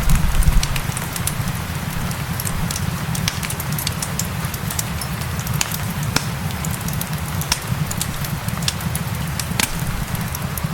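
Crackling fireplace with frequent sharp pops and snaps, irregularly spaced, over a steady bed of rain and a low rumble.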